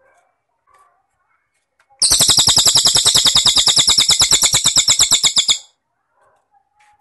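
A loud, rapid high-pitched trill of about ten even pulses a second, starting about two seconds in and stopping after about three and a half seconds, with faint scattered chirps before and after it.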